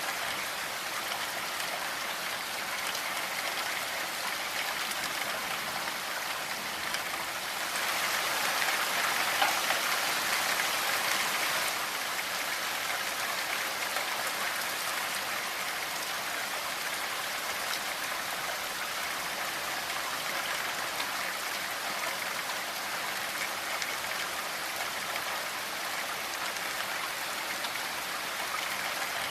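Steady rainfall, an even hiss of many drops, which swells louder for a few seconds about a quarter of the way in and then settles back.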